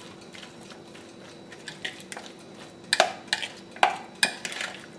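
A utensil clinking and scraping against a bowl while stirring a mayonnaise-dressed chopped salad, with a few scattered light clicks and three louder knocks in the second half.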